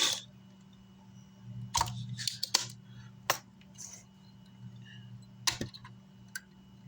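Scattered sharp clicks and light taps, irregularly spaced, from small tools and parts being handled on an electronics repair bench, over a faint steady low hum.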